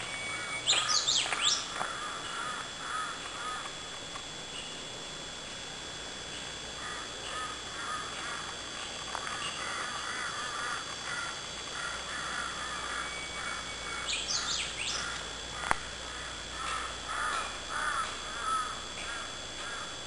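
Wild birds calling in a forest: a loud, sweeping, whistled call about a second in and again about two-thirds through, and a run of quick repeated chirping notes through much of the second half. A single sharp click comes near the three-quarter mark.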